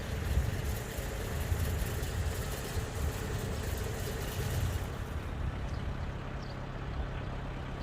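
Tractor engine running steadily, a low rumble. About five seconds in the higher hiss drops away while the engine rumble goes on.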